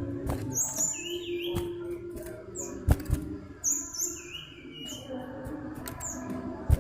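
Common iora (cipow) singing: two quick phrases of high whistled notes stepping down in pitch, with short falling chirps between them. Several sharp clicks cut in, the loudest near the middle and just before the end.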